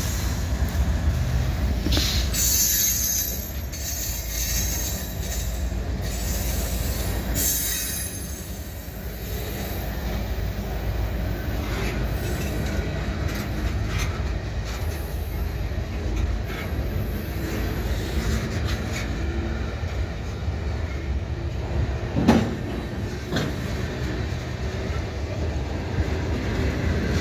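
Freight train cars rolling past: a steady rumble of steel wheels on the rail, with high-pitched wheel squeal through the first several seconds and a single sharp knock about 22 seconds in.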